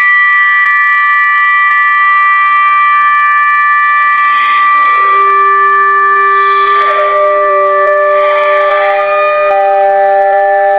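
Emergency alert alarm: loud steady tones held at several pitches at once, with lower tones joining about five seconds in and again around seven and nine seconds, so the chord builds downward.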